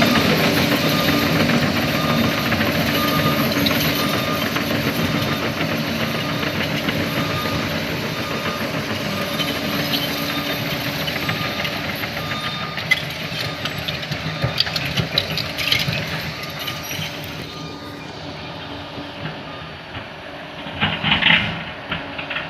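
Bulldozer's diesel engine running steadily, slowly fading, with a reversing alarm beeping evenly through the first half. Scattered metallic clanks come in the second half, and a louder burst of noise comes near the end.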